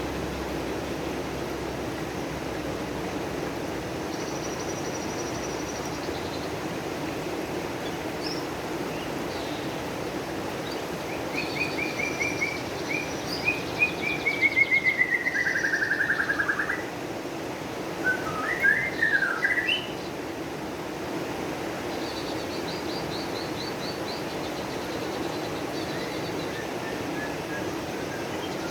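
Songbird singing: a burst of rapid trills and chirps in the middle, including a long falling trill, with fainter high twitters before and after, over a steady low hum.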